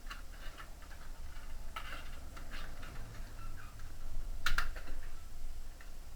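A series of light, irregular clicks and taps, the loudest about four and a half seconds in, over a low hum.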